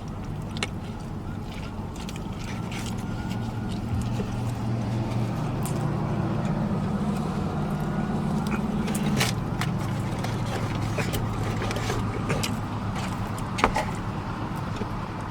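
Vehicle engine running with a steady low hum, its pitch shifting a little midway, overlaid by scattered sharp clicks of chewing and lip-smacking.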